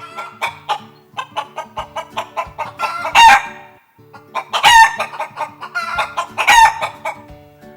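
Hen clucking in quick short notes, broken by three loud drawn-out cackles about three, four and a half and six and a half seconds in.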